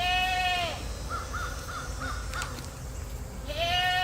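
Two long, level-pitched animal calls, one at the start and one near the end, with a few short, faint chirps in between.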